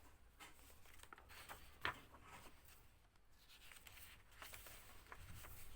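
Faint paper handling: pages of a colouring book being turned and rustled, with a sharp click about two seconds in.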